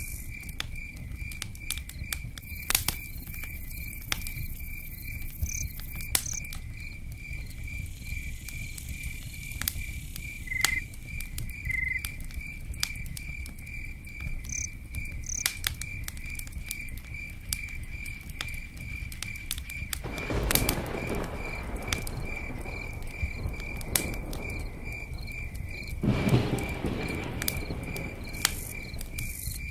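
A cricket chirping steadily at an even pace over a crackling campfire with scattered sharp pops and a low rumble, with rain patter. Two louder rushing swells come about two-thirds through and near the end.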